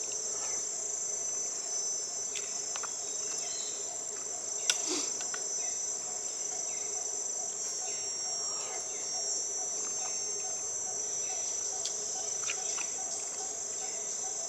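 Steady, high-pitched chorus of insects buzzing without a break, with one sharp click a little under five seconds in.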